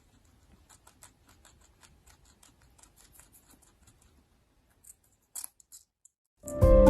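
Faint, irregular soft clicks and scratches, a few seconds of them, then music starts abruptly and loudly near the end.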